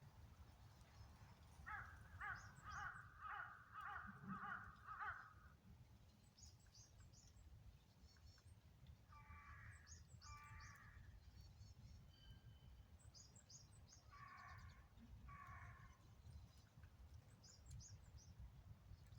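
Birds calling: a quick run of about eight harsh calls, then two pairs of the same calls later on, with smaller birds chirping thinly and high throughout over a low steady rumble.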